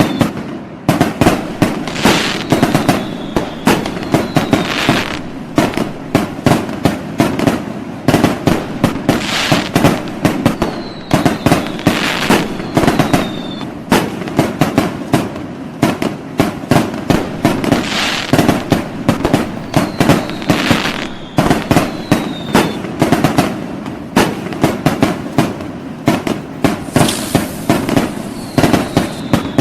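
Fireworks going off without pause: a dense run of sharp bangs and pops with crackling. Every few seconds there are short whistles that dip slightly in pitch.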